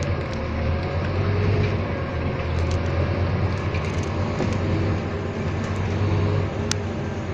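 Scania N230UD double-decker bus's diesel engine running with a steady low drone, which eases near the end; a single sharp click sounds shortly before it eases.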